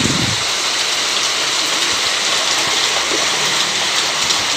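Steady heavy rain falling and splashing on surfaces, with a brief low thud right at the start.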